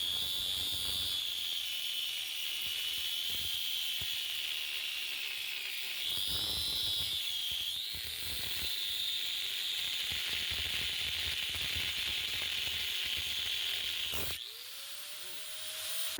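Angle grinder with a cutoff wheel cutting through a steel fender strut: a steady high-pitched whine and hiss. About fourteen seconds in there is a sharp crack, the cutting noise stops, and the motor's pitch rises as it spins free, which fits the cutoff wheel blowing apart.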